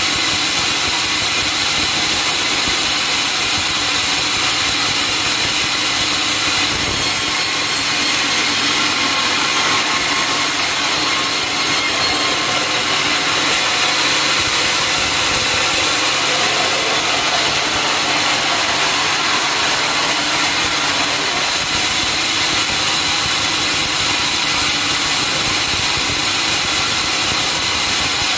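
Sawmill saw cutting through a teak log, with the machine's engine running underneath. The sawing is a steady, dense hiss, mostly high in pitch, that does not let up.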